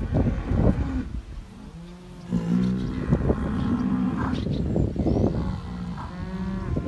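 Bull bellowing: a long, low, drawn-out call of about three seconds starting a little over two seconds in, and a second call near the end. A short loud rush of noise comes at the very start.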